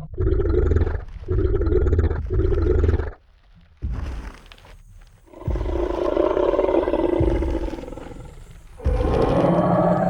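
Tyrannosaurus rex roar sound effect: three short growls in quick succession, then after a brief pause a long roar that fades away, and another roar beginning near the end.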